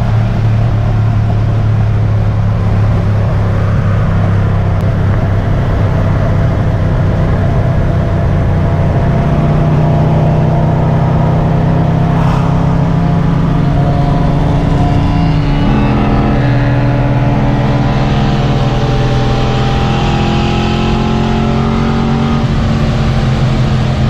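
Car engine running at a steady speed, its note shifting a couple of times, with a brief rise in pitch about fifteen seconds in.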